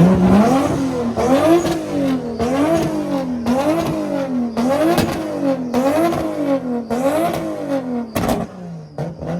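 Car engine revved hard in quick repeated blips, its pitch climbing and falling about once every 0.7 seconds, roughly a dozen times, before dropping back near the end.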